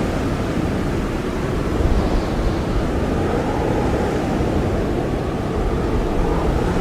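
Blizzard wind blowing steadily, a dense rushing noise heaviest in the low end, swelling slightly about two seconds in.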